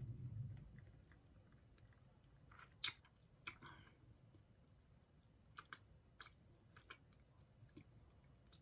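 A person chewing candy quietly with the mouth closed, with a few short, sharp mouth clicks and smacks scattered through, the loudest two about three seconds in.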